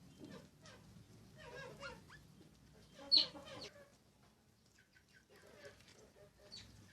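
Wild house sparrows calling while they feed: scattered short chirps mixed with lower-pitched calls, and one loud, sharp chirp about three seconds in.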